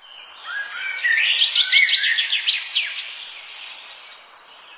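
Bird chirping: a quick run of high, sharply falling chirps, loudest between about one and three seconds in, then fading away.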